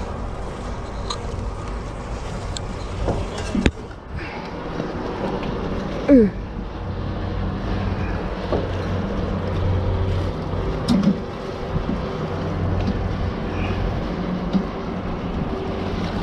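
Steady low hum of a ship's machinery under a wash of wind, with a sharp knock about three and a half seconds in and a brief falling squeak about six seconds in.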